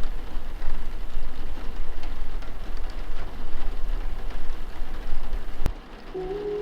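Steady rain with a fine crackle of drops fills the gap between songs. A sharp click comes near the end, the rain drops in level, and a soft melody begins under it.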